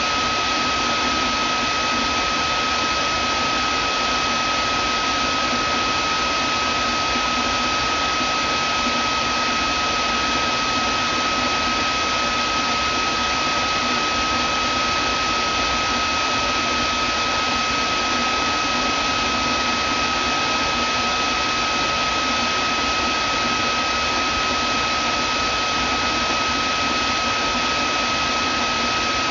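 Vacuum cleaner running steadily, a constant rushing of air with a steady high whine from the motor.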